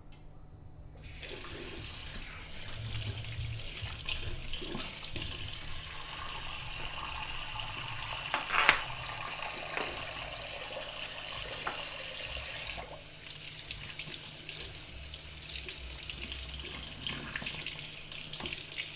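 Kitchen tap running into a sink while salted fish is rinsed under it to wash off the salt, with one sharp knock about nine seconds in.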